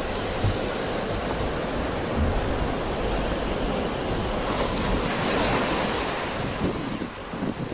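Sea surf: a steady rush of waves washing on a shore, with a swell of louder hiss about five seconds in as a wave breaks. Wind rumbles unevenly on the microphone underneath.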